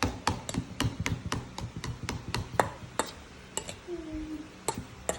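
A utensil knocking repeatedly against a bowl while mashing eggs: about four sharp knocks a second, thinning out after about three seconds. A brief pitched call about four seconds in.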